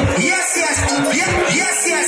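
Loud electronic dance music, the club DJ's set taken straight from the mixing desk, with low repeated beats and gliding synth lines.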